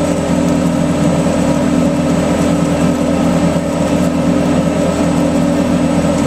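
Plastics extruder machinery for 3D-printer filament running steadily: a loud, even mechanical drone with a faint high whine.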